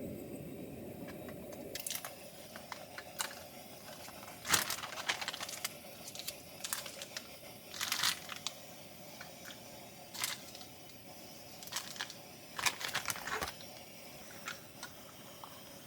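Irregular handling noises: a string of short rustles and clicks, the loudest about four and a half seconds in and again around eight seconds.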